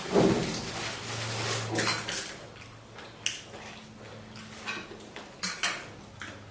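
Cutlery clinking against bowls and dishes, with a few sharp clinks in the second half.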